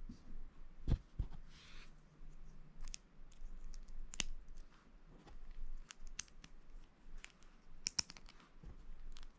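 Lego bricks being handled and pressed together: irregular sharp plastic clicks and taps, with a brief rustle about one and a half seconds in.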